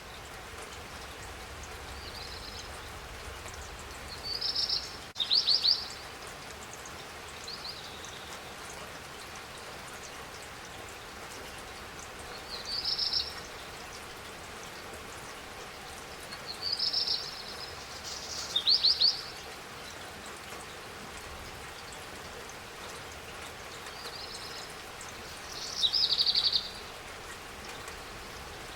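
Steady spring rain hissing, with a bird singing short, high chirping phrases every few seconds over it; the bird phrases are the loudest sounds.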